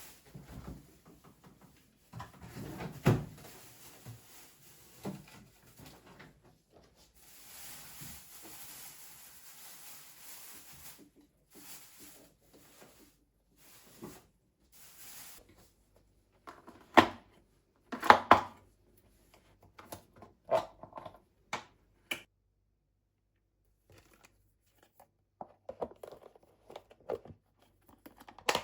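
Scattered household handling sounds in a small room: soft rustling with short clicks and knocks, three sharper knocks standing out, one about 3 seconds in and two close together around 17 to 18 seconds.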